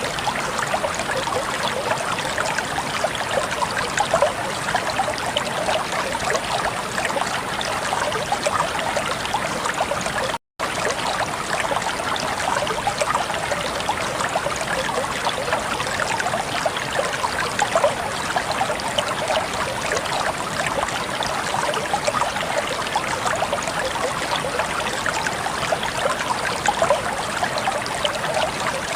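Flowing water running steadily, as of a stream; the sound cuts out for a split second about ten seconds in.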